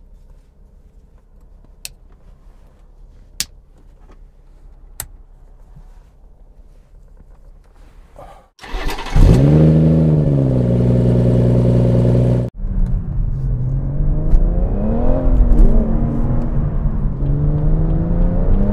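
A sharp clap from a clapperboard, then a few lighter clicks. From about nine seconds in, the BMW M140i's turbocharged 3.0-litre straight-six revs up and holds steady, cutting off abruptly. It then runs on under way, its pitch rising and falling with the throttle.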